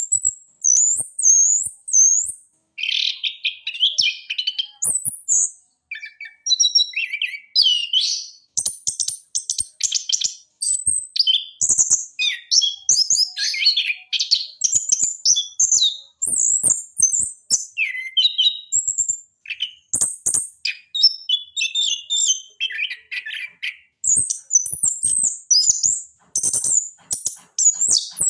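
Chestnut-capped thrush (anis kembang) singing a long run of quick, varied high-pitched phrases, mixed whistles and chattering notes with short breaks between them.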